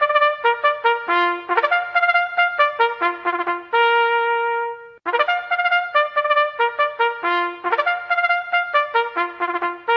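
Trumpet playing a bright fanfare of quick notes that ends on a long held note. The same phrase starts again about halfway through.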